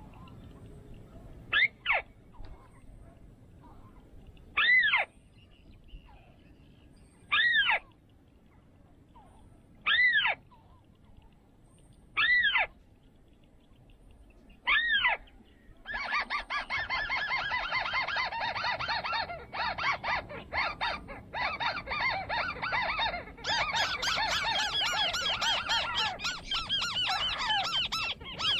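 Songbird calls: a single arching note repeated about every two and a half seconds, six times, then a little past halfway a fast, continuous chattering song that grows fuller and brighter near the end.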